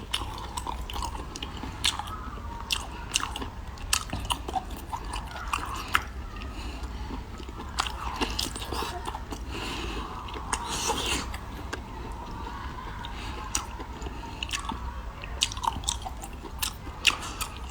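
A person biting and chewing seafood, with frequent sharp crunches and clicks.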